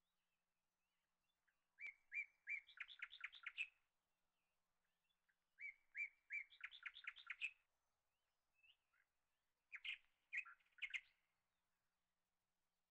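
A small bird chirping and trilling in three short bursts of quick high notes, a few seconds apart.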